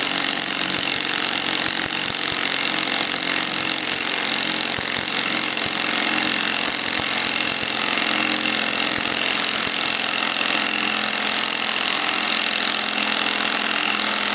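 Bauer cordless compact impact wrench, on a Flex battery through an adapter, hammering steadily as it runs down a large fastener, without a pause.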